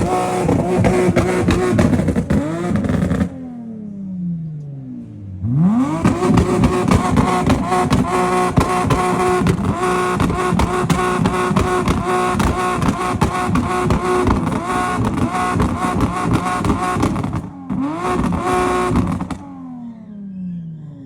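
Car engine revved hard and held at high revs, its note steady with a fast rhythmic stutter. The revs fall away about three seconds in and climb sharply back around five and a half seconds. They hold for about twelve seconds, dip and flare once more, then fall away near the end.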